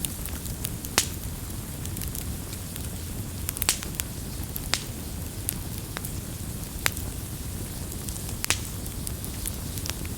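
Wood fire crackling: a steady low rumble of burning with sharp pops and snaps at irregular moments.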